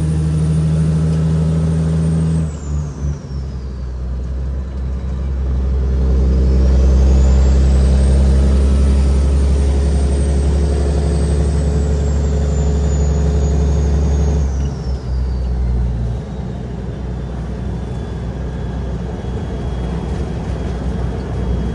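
Caterpillar 6NZ (3406E) diesel in a Kenworth W900L hauling a heavy load, pulling hard with a high whistle over the engine sound. It eases off about two and a half seconds in, pulls harder again from about six seconds, and eases off once more around fifteen seconds, the whistle falling away each time it lets off.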